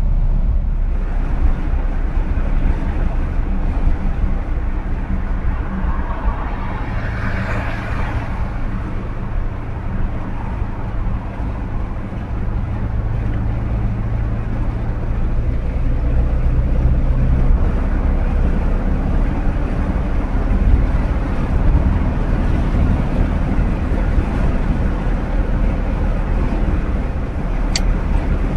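1959 Chevrolet Bel Air's 348 big-block V8 running steadily at cruising speed with road noise. A rush of noise swells and fades about seven seconds in.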